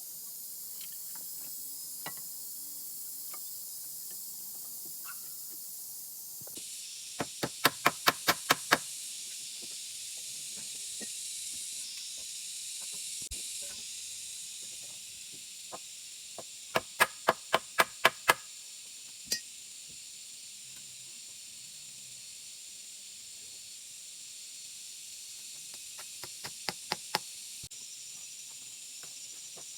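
Three quick runs of sharp knocks, each of about seven strokes at roughly five a second, over a steady high hiss.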